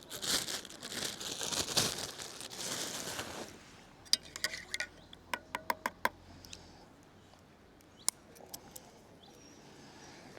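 Food wrapping crinkled and rustled for about three and a half seconds, then a quick run of light clicks and taps, with one more click a little later.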